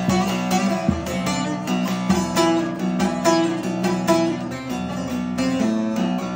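Divan bağlama with a carved chestnut bowl being played: a quick run of plucked, picked notes over steadily ringing drone strings.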